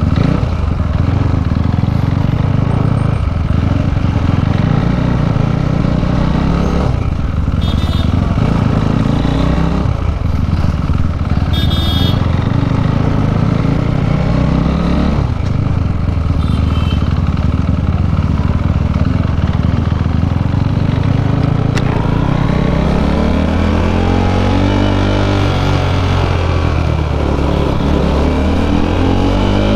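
KTM RC 390's single-cylinder engine through an Akrapovič exhaust, riding along at a steady pace. From about three-quarters of the way in it accelerates through the gears in a run of repeated rising pitches.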